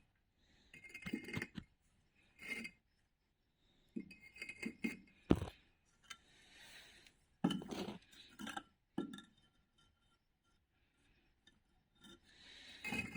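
Hard bricks clinking and knocking against each other as they are handled, several separate strikes in clusters, some with a short ringing tone.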